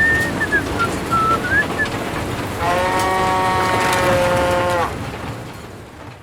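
Small motor of a DIY mini truck model running with a steady rattle. A steady pitched honk sounds for about two seconds in the middle, and then the sound fades away.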